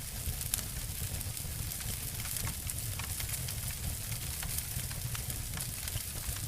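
Two wood fires crackling and snapping together: frequent, irregular sharp pops over a steady low rumble and a soft hiss.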